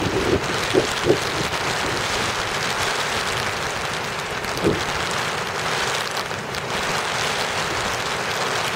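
Heavy rain hitting an umbrella, a steady hiss with a few short louder knocks in the first second and another about four and a half seconds in.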